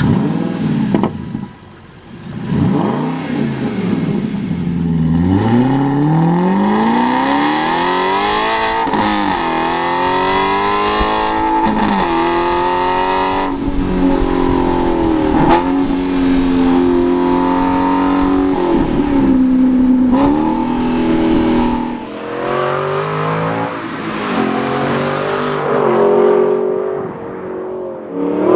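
High-performance car engine: a few short revs, then accelerating hard with a rising pitch that drops sharply at each of several gearshifts, holding high revs for a while before easing off into softer revs near the end.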